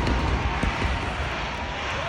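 Fireworks: a dense, continuous rumble and crackle of many bursts blending together, slowly fading, with a few sharper cracks.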